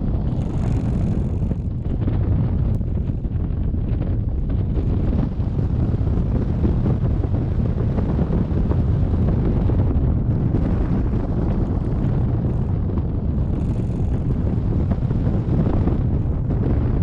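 Steady rushing wind noise buffeting the microphone, a low rumble from air streaming past at flying speed on a hang glider in flight.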